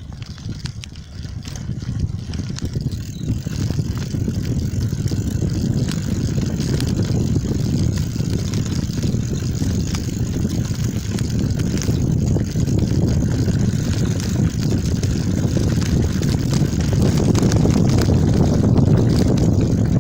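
Steady low rumble of wind buffeting the microphone and bicycle tyres rolling on the road as a dog pulls the bike along, building over the first few seconds and then holding, with scattered small clicks and rattles.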